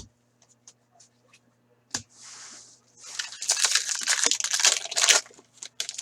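Wrapper of an Upper Deck Series 1 hockey card pack being torn open and crinkled in the hands, about two seconds of crackling after a single tap about two seconds in.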